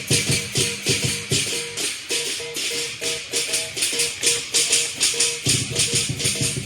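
Lion dance percussion band playing: cymbals clashing in a steady beat of about four a second over a drum and gong. The low drum strikes drop out about two seconds in and come back about five and a half seconds in.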